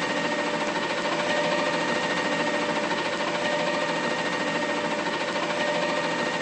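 Mack LR garbage truck's diesel engine running steadily: a fast, even pulsing with a steady whine on top.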